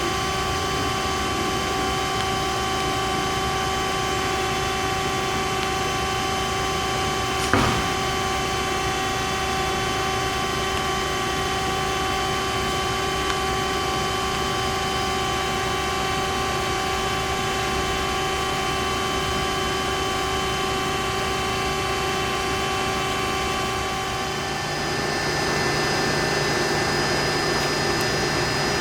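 HEM VT125HA-1 vertical tilt frame band saw running: a steady machine hum made up of several fixed tones. There is one sharp click about a third of the way in, and a lower hum comes in near the end as the mix of tones shifts.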